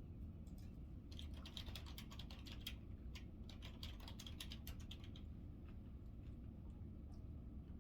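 Faint, rapid light clicking and tapping starts about a second in and stops about five seconds in, over a low steady hum.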